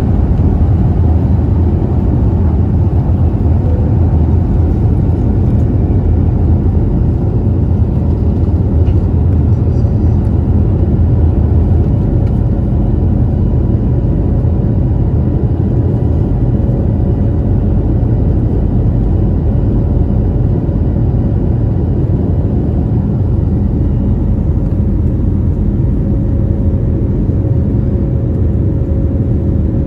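Airbus A321neo LR in its takeoff climb, heard from the cabin: a steady, loud rumble of engines and airflow. A faint steady whine comes up a little stronger about halfway through.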